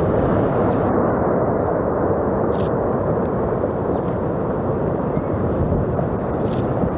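Steady low rumble of Sakurajima volcano's ongoing eruption, a continuous even roar with no separate blasts.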